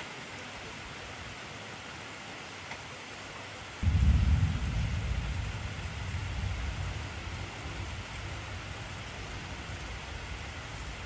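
Steady heavy rain hissing, with a deep rumble of thunder that breaks in suddenly about four seconds in and slowly fades over the next few seconds.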